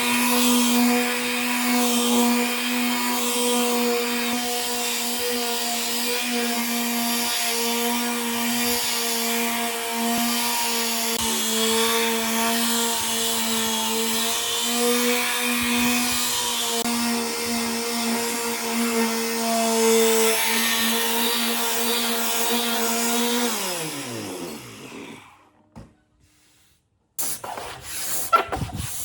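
Electric power tool running steadily on wood, a constant motor hum under a hiss of cutting or abrasion; about 23 seconds in it is switched off and winds down with a falling pitch. After a short pause, rough scraping strokes on wood begin near the end.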